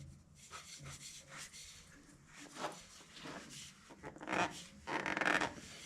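Light handling clicks, then two short rasping scrapes near the end as a spin-on oil filter is turned onto its mount by hand.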